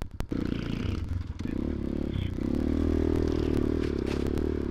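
Motoland XR250 dirt bike's single-cylinder engine picking up from idle and running under throttle, its revs rising in steps and loudest through the second half.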